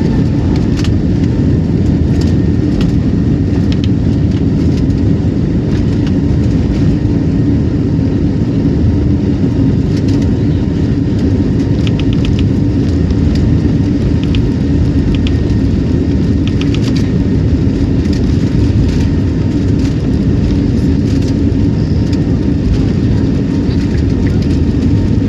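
Passenger airliner's engines running with a steady loud rumble and a constant low drone, holding level rather than building up. A few faint rattling ticks come through around the middle.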